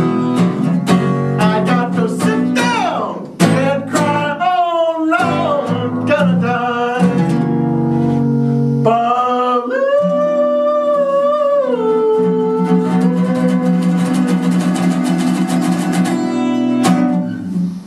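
Acoustic guitar strummed and picked, with a voice singing the closing line and holding one long, wavering note that steps down near the middle. The guitar ends with a final strummed chord near the end, and the sound stops.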